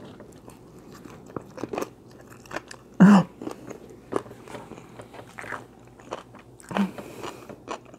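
Close-miked chewing of a mouthful of leafy salad greens, with crunching and small wet clicks throughout. Two short hums break in, about three seconds in and near the end.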